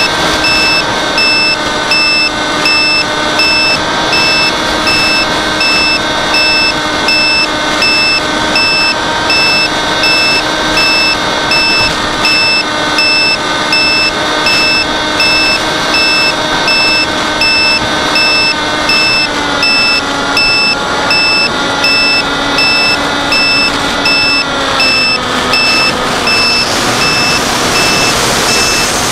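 A steady, high motor whine with overtones that steps down in pitch a few times in the last third, under a fast, continuous electronic beeping.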